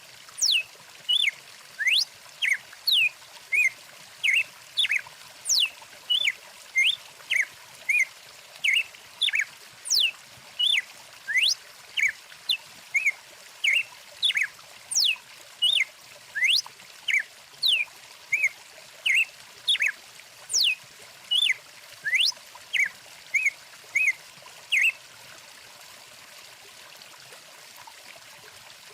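Birdsong: short chirps mixed with quick sweeping whistles, repeated rapidly at about two notes a second, over the steady trickle of a stream. The birdsong stops a few seconds before the end, leaving only the running water.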